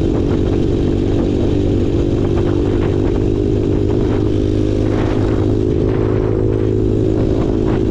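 Small off-road engine running at a steady, even speed while the vehicle is ridden, with light rattling and knocking over the engine note.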